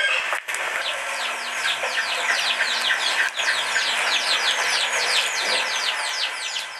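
A bird chirping in a quick series of short, high, falling notes, several a second.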